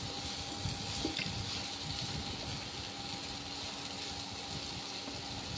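Diced papaya, tomato and green chili frying in hot oil in a pan: a steady, soft sizzle with small crackles, while a wooden spatula stirs the vegetables.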